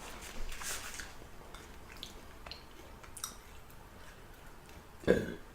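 Close-up chewing and wet mouth sounds of a person eating fried chicken and sticky rice: soft squishing with scattered small clicks, and one short louder mouth sound near the end.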